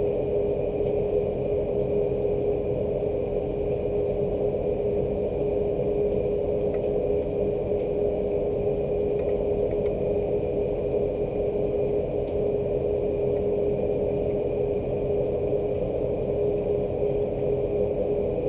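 A steady mechanical hum with one constant mid-pitched tone, unchanging throughout.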